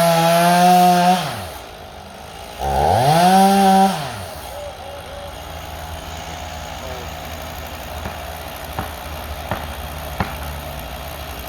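Chainsaw revving up to full speed, holding briefly and dropping back, twice, then settling to a low idle. Three faint ticks near the end.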